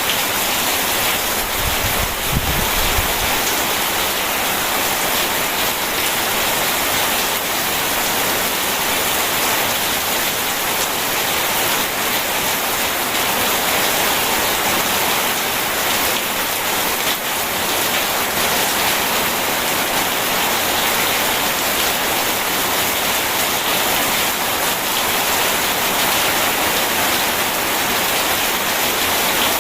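Steady rain, an even hiss of falling water, with a brief low rumble about two seconds in.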